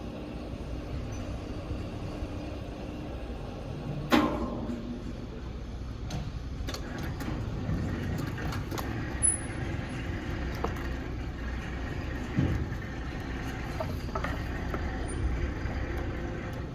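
Sawmill machinery running with a steady low rumble, with a sharp knock about four seconds in and a smaller one about twelve seconds in.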